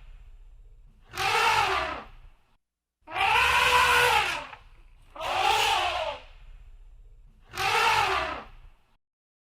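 Elephant trumpeting: four loud blasts about a second or so each, every one rising and then falling in pitch, with a low rumble under the gaps between them.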